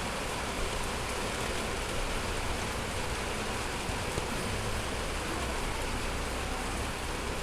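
Steady rain falling, an even hiss of noise with no breaks.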